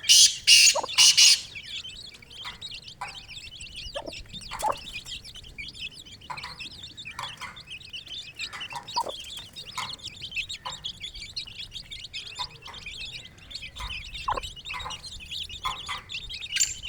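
Chicks peeping continuously while a mother hen gives short, scattered clucks. A few loud, harsh bursts come in about the first second.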